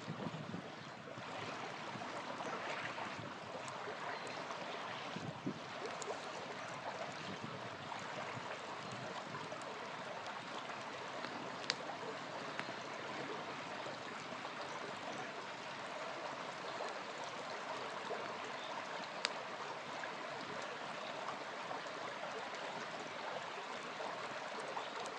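Small river flowing steadily, with a campfire crackling over it and two sharp pops, one about halfway through and one about three-quarters of the way through.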